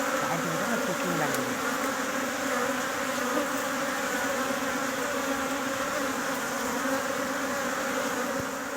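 Honeybee colony humming: many bees buzzing together in a steady, dense drone.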